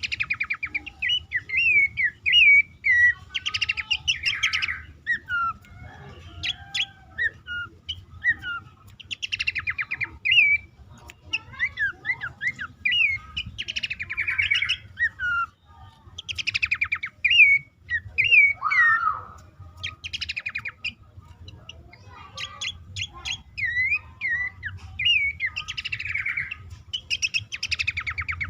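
Pelanduk semak (Horsfield's babbler) calling: a continual string of short whistled notes, broken every few seconds by a fast rattling trill. A faint steady low hum lies underneath.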